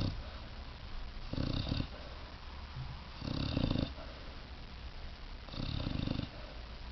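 Puppy snoring in its sleep, one fluttering snore about every two seconds, three full snores in all.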